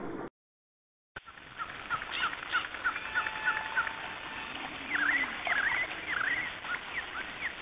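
Stock sound-effects recording of small birds chirping over a steady hiss, after a gap of dead silence near the start. A run of short repeated chirps gives way to louder swooping chirps in the second half.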